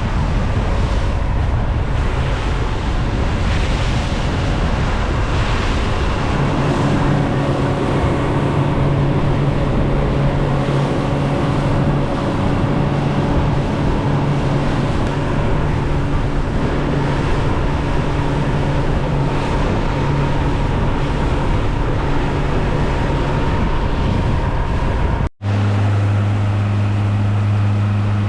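A small boat's outboard motor running under way, with wind buffeting the microphone and water rushing past the hull. About a quarter of the way in, a steady engine tone rises out of the noise; near the end the sound cuts abruptly to a lower, steadier engine tone with much less wind.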